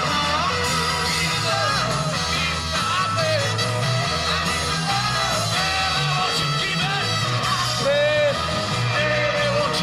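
Live rock band playing: electric guitars, bass and drums under a gliding lead vocal, heard directly from a soundboard recording.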